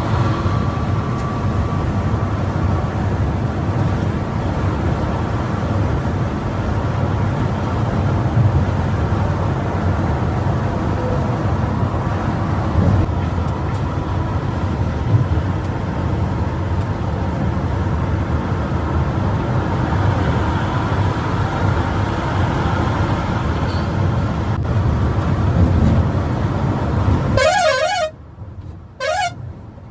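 Bus at speed: steady engine and road noise. Near the end come two short blasts of a warbling multi-tone horn.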